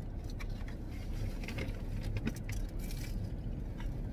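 Crunching and chewing of a crisp tostada shell, heard as scattered short crackles over a low steady hum inside a car.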